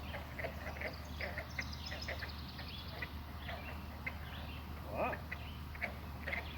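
Frog chorus at a pond: many short calls overlapping in an irregular patter, with one longer, louder call about five seconds in.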